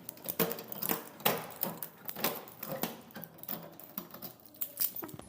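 A door being locked with a key: a run of irregular metallic clicks and clunks from the key and lock, about two or three a second.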